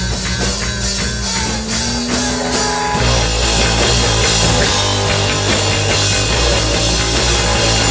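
Live rock band playing, with electric guitar and drum kit; the playing gets fuller and louder about three seconds in.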